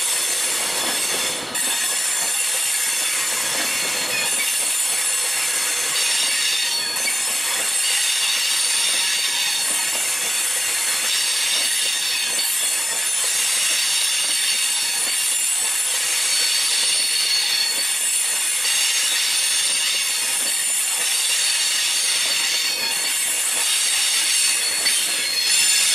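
Class 390 Pendolino electric train squealing at low speed: a shrill, many-toned squeal that holds steady and is unpleasant to listen to.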